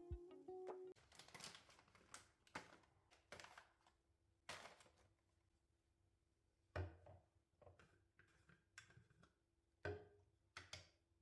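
Quiet handling sounds: soft rustles and light clicks, with two louder muffled thumps about seven and ten seconds in, over a faint steady hum. Plucked guitar music ends in the first second.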